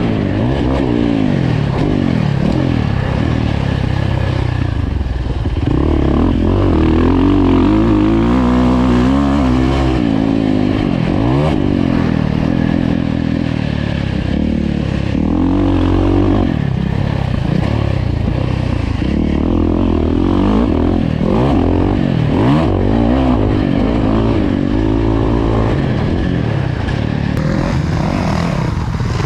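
Dirt bike engine revving hard and easing off over and over as it is ridden, its pitch climbing and dropping every second or two.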